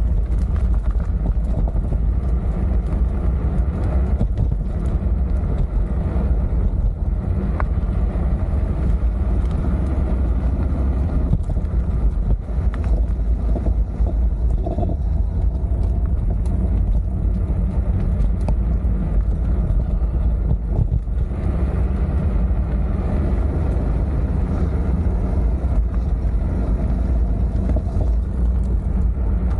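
Steady low rumble of wind buffeting an action camera's microphone while riding a bike.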